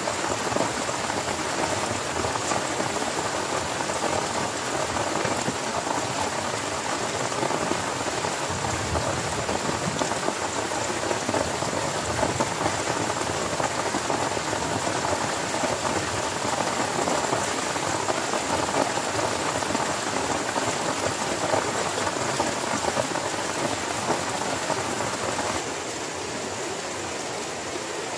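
Heavy rain falling steadily, a dense crackling hiss of drops. About 25 seconds in it drops slightly in level and turns into a smoother, even rush.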